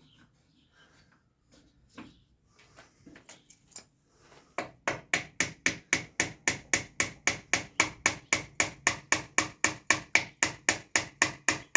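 Hammer tapping steadily on wood, even strikes about four a second, beginning about four and a half seconds in after a few light knocks.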